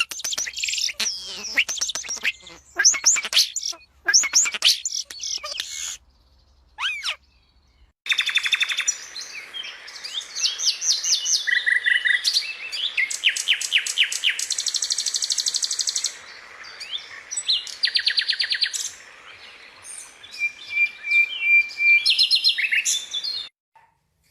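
Small songbirds chirping and singing in a string of short recordings: quick whistled notes that rise and fall, then, after a brief quiet gap, fast trills and rapidly repeated chirps over a steady hiss.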